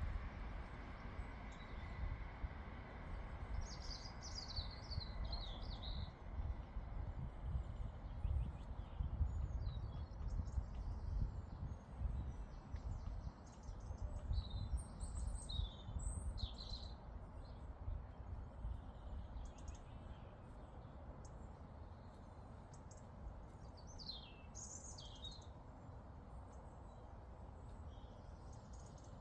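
Small songbird singing in three short bursts of quick, falling chirps, over a low, gusting rumble of wind on the microphone.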